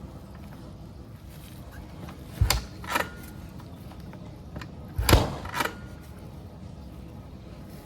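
Two kick-start attempts on a dirt bike in freezing cold. Each kick is a heavy thud followed about half a second later by a clack, and the engine does not fire.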